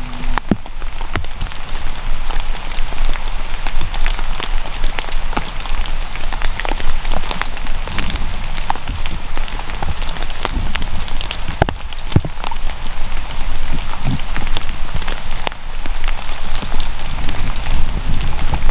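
Steady rain with many separate sharp drop hits.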